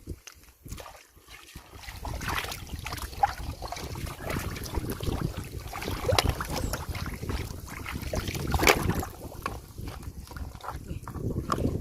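Shallow floodwater splashing and sloshing in irregular bursts as someone wades and works through it by hand, with wind rumbling on the microphone.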